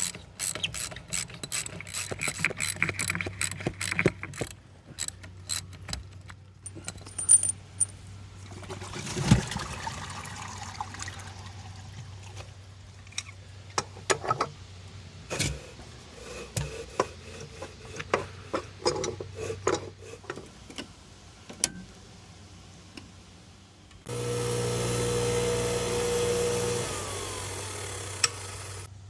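Hayward Super pool pump: a faint steady electrical hum under a run of sharp clicks, taps and knocks of tools on the pump. About 24 seconds in, a loud steady running sound with a strong hum starts, eases a little a few seconds later, and stops just before the end.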